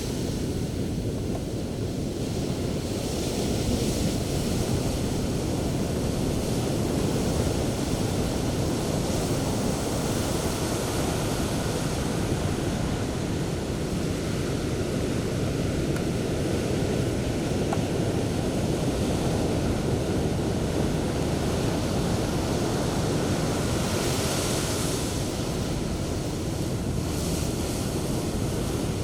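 Sea surf breaking and washing up the beach in a steady rush, with wind rumbling on the microphone. The hiss of breaking foam swells up several times, most strongly about 24 seconds in.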